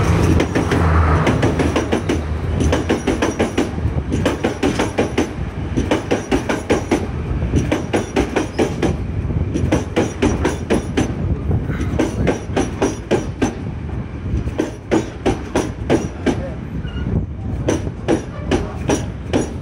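Sri Lanka Railways Class S10 diesel multiple unit passing close by. The power car's diesel engine hums low at first, then the carriage wheels clack rapidly and repeatedly over the rail joints as the coaches roll past.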